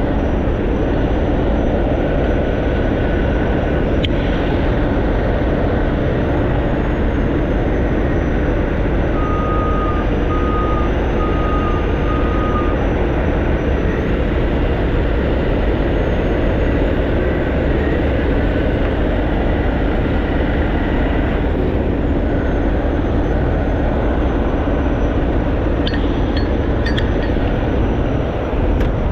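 Heavy tow truck's diesel engine running steadily. About ten seconds in, four short, evenly spaced beeps like a reversing alarm sound over it.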